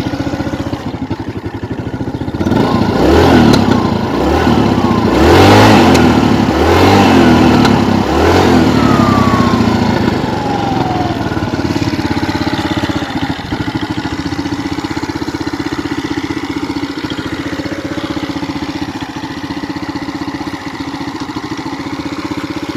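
Kymco Agility 125 scooter's single-cylinder four-stroke engine running after a kick start. It idles, is revved about four times in quick succession, then winds down to a steady idle.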